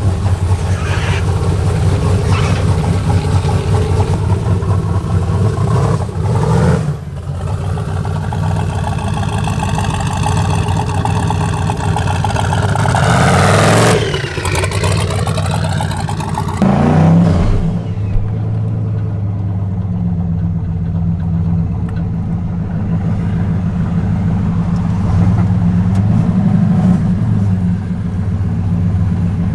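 Lifted pickup truck's engine running steadily as it drives on wet streets, heard from inside the cab, with a tyre and road hiss that dies away about two-thirds of the way through. There is a brief sweeping whoosh around the middle.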